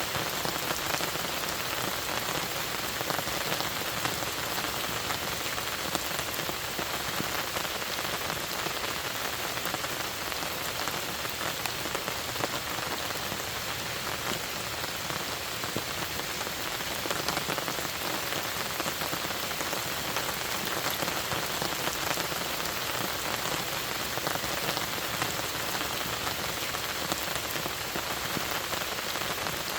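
Steady rain falling: a dense, even patter of countless drops that holds unchanged throughout.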